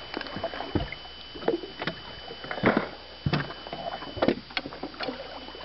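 Irregular knocks, taps and clatter of gear being handled in a small fishing boat, as a landing net is brought into use for a walleye.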